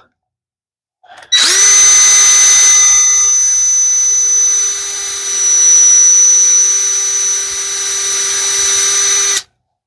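Power drill running steadily for about eight seconds while drilling a hole in wood, a constant whine that dips a little in loudness as the bit cuts, then stops abruptly.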